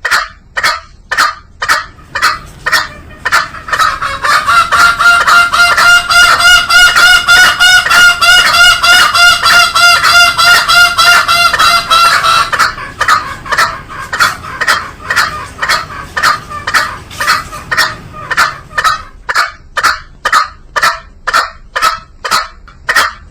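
Green junglefowl calls repeated in quick succession, about two a second. From about four to twelve seconds in, a sustained, wavering pitched sound sits over the calls.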